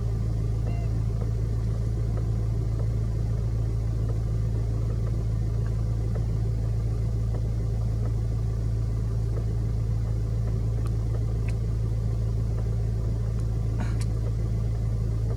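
Steady low mechanical hum over a constant rumble, with a few faint ticks.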